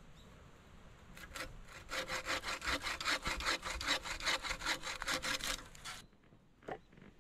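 Wooden-framed bucksaw cutting through a branch by hand, in quick, regular back-and-forth strokes that begin about two seconds in and stop suddenly about six seconds in. A light knock follows near the end.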